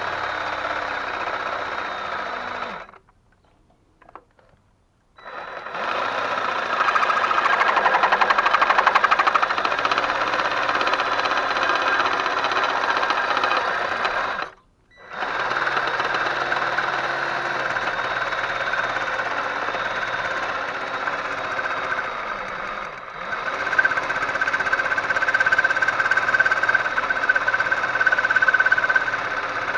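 A power tool running in long stretches with a rapid mechanical rattle. It stops for about two seconds near the start and again briefly about halfway, and a steady whine comes in near the end.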